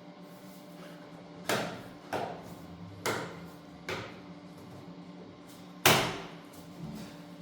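Five irregular knocks and clunks on hard objects over a steady low hum; the loudest comes about six seconds in.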